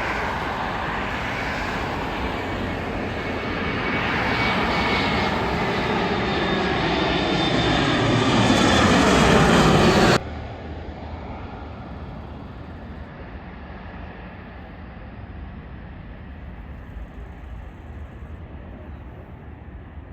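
Airliner engines passing close on landing approach, growing louder with a falling whine, then cut off abruptly about halfway through, leaving a quieter steady rumble.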